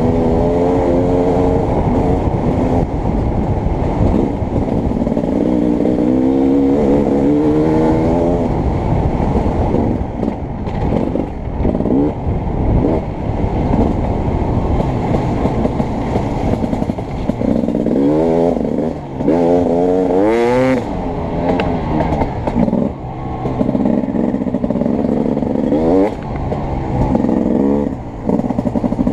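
Beta 300RX two-stroke motocross bike being ridden hard, its engine revving up and down as the throttle is worked. The pitch sweeps up repeatedly and briefly drops when the rider comes off the throttle.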